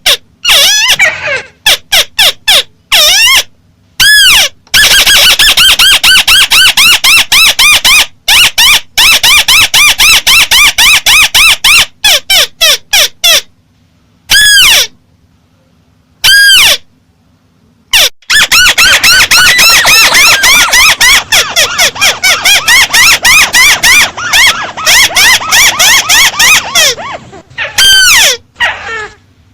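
Loud, amplified recording of the bird called 'chim mắt xéo' in Vietnamese, calling in fast runs of short arched high notes, several a second, broken by brief pauses. A few single longer notes stand apart in the middle.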